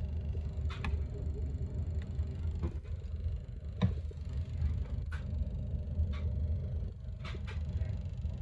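Steady low rumble of a Class 395 electric train running, heard inside the carriage, with several short sharp clicks and knocks, the loudest a little before four seconds in.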